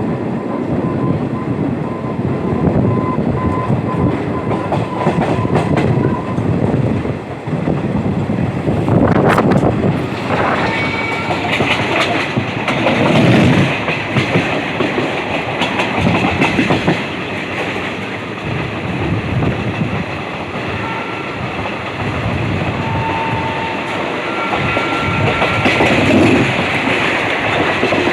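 Passenger train running at speed, with a steady rumble and the clatter of its coach wheels over the rail joints.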